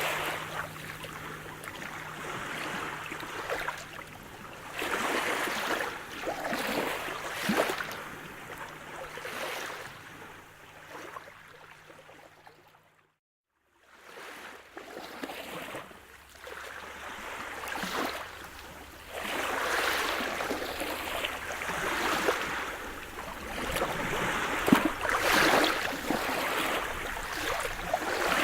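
Sea surf: waves breaking and washing in, swelling and fading every few seconds. About halfway through, the sound cuts out almost completely for about a second before the surf returns.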